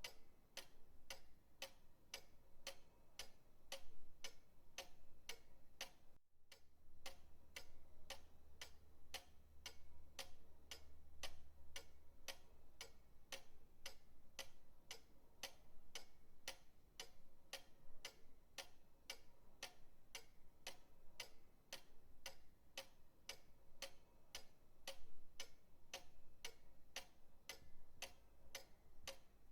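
Pendulum clock ticking steadily, about two ticks a second, with a brief dropout about six seconds in.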